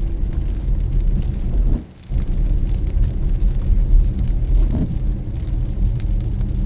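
Car driving on a road: a steady low rumble of engine and tyre noise, which drops out sharply for a moment about two seconds in.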